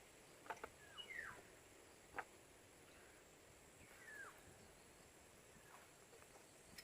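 Faint forest birdsong: a few short calls sliding downward in pitch, spaced a couple of seconds apart, with two sharp clicks early on.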